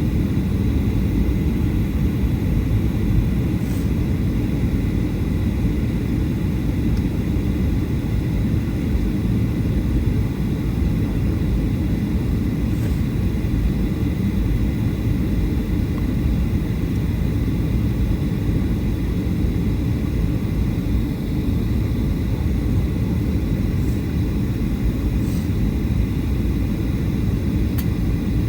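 Steady low rumble of a Boeing 737-800 in flight, the engine and airflow noise heard inside the cabin, with a faint steady high whine over it.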